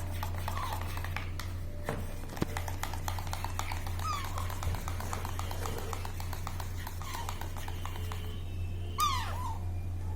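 Baby parrot giving a few short squeaky calls that fall in pitch, the loudest near the end, over a quick run of small clicks and a steady low hum.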